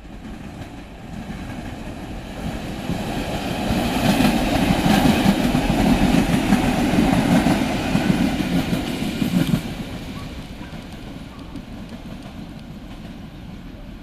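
Przewozy Regionalne EN57 electric multiple unit passing at speed: the rumble of wheels on rail builds as it approaches, stays loud for about five seconds with a rapid clatter as the cars go by, and drops off sharply when the last car clears, then fades away.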